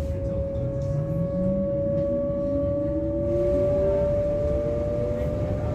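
Class 425 electric multiple unit under way: the traction equipment whines in several tones, some rising slowly in pitch as the train gathers speed, over the low rumble of the running gear.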